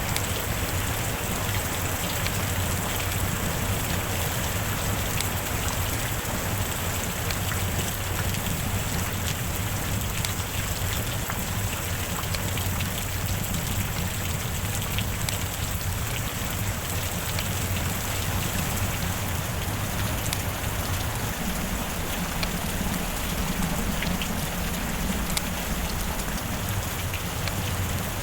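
Steady heavy rain falling on a surface, with scattered individual drops ticking through the hiss.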